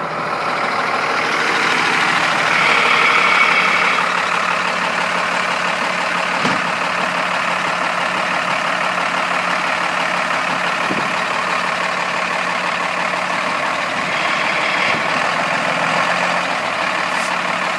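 Engine of a 1998 Blue Bird TC2000 bus running steadily as the bus is driven. It picks up in revs about two seconds in and again near the end.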